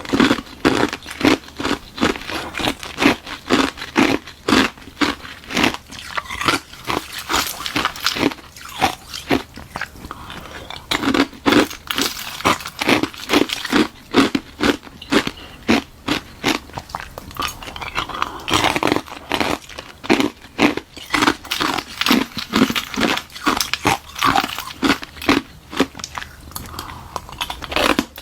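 Close-miked crunching and chewing of hard ice, a hollow ice shell frozen in a balloon and filled with frozen milk tea, being bitten and chewed in rapid crisp crunches, about two or three a second.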